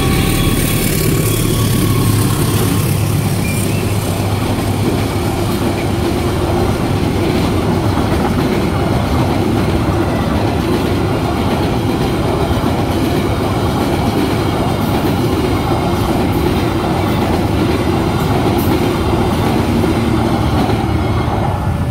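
Passenger train's coaches rolling past close by at a level crossing: a loud, steady rumble of wheels on the rails.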